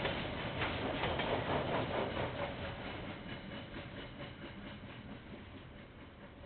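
A KiwiRail train passing by, its wheels clicking over the rail joints for the first couple of seconds, then its rumble fading steadily as it moves away. Heard through a security camera's microphone, with no high end.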